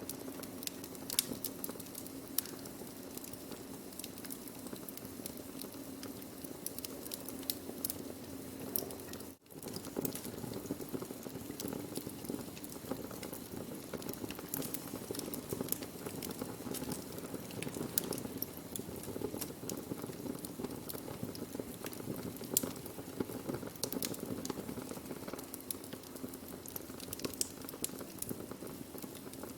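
Burning wood crackling steadily, with frequent sharp pops and snaps over a soft, even hiss. The sound drops out for a moment about nine seconds in.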